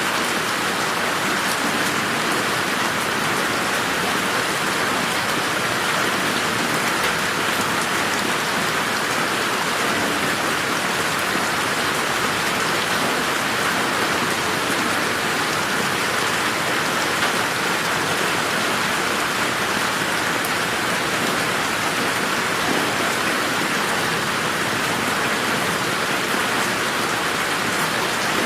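Steady rain falling on surfaces in a garden, a dense even patter of drops without letting up.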